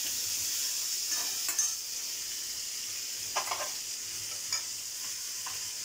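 Sliced onions with green chillies, garlic and ginger sizzling steadily in oil in a kadai as they are sautéed, while a metal slotted spoon stirs them and scrapes against the pan a few times.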